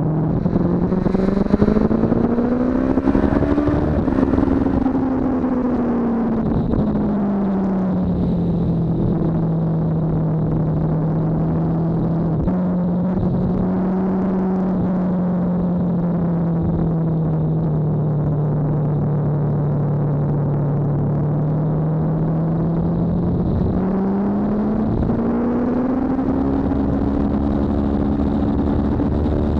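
BMW S1000RR inline-four motorcycle engine under way. The revs climb over the first few seconds, drop back and hold steady for a long stretch, then rise again near the end as the bike accelerates hard.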